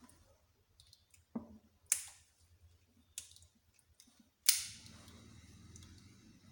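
Sharp metallic clicks and clanks of tools and engine parts being handled during motorcycle engine disassembly: a few short knocks, then a louder clank with a ringing tail about four and a half seconds in.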